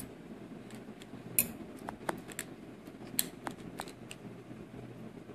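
Scattered light clicks and taps of a plastic heart-shaped mould being handled as clay is pressed into it, over a low steady hum.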